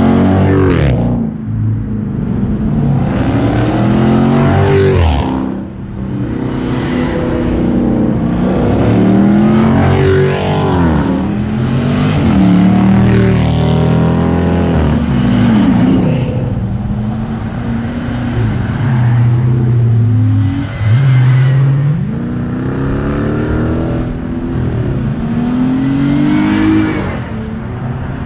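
Cars accelerating past one after another, each engine revving up in a rising pitch, dropping at a gear change and rising again as it goes by.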